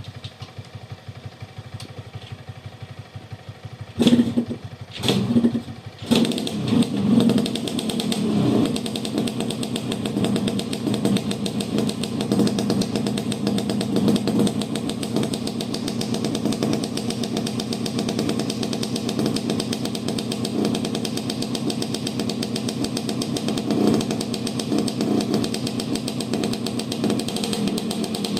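Yamaha RX King's single-cylinder two-stroke engine started from cold: it fires briefly twice, about four and five seconds in, then catches a second later, revs up a few times and settles into a steady idle, with one more short blip of the throttle near the end.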